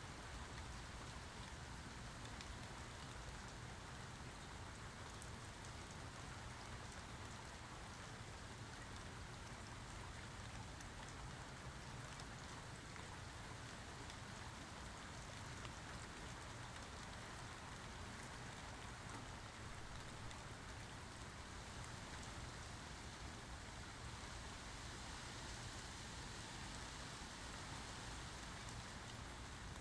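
Steady rainfall with scattered drops pattering on surfaces, an even hiss with no thunder heard.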